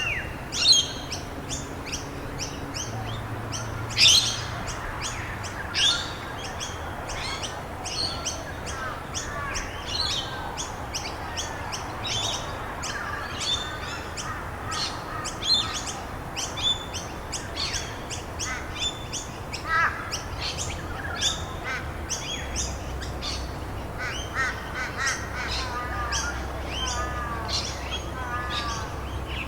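Several songbirds chirping and trilling, short calls coming several a second, with the loudest chirps near the start and about four seconds in. A steady hiss runs underneath.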